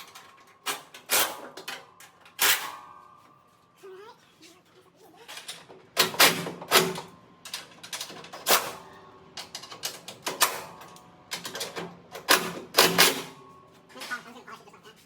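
Irregular metallic clanks and clicks from hand tools and bolts working on a truck's steel hood, several with a brief ring from the sheet metal. The hits come in clusters, heaviest in the middle of the stretch.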